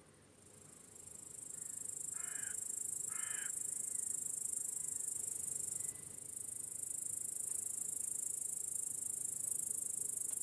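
A dense, continuous high-pitched cricket chorus swells in over the first second or two and cuts off abruptly at the end. Two harsh crow caws come about two and three seconds in.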